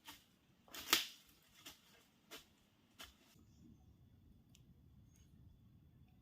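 Five short, sharp strokes about two-thirds of a second apart, the second the loudest; from about three and a half seconds in only a faint low background hum remains.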